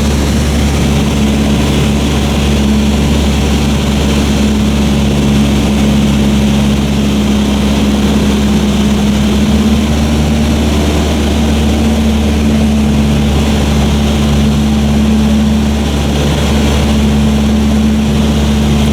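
Cessna 152's four-cylinder Lycoming piston engine and propeller droning steadily in cruise, heard from inside the cabin as a loud, even hum. The engine note shifts slightly about halfway through.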